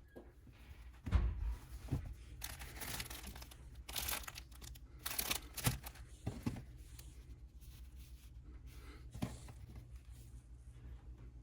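Rustling and crinkling handling noises, several short bursts, with a few soft thumps in between.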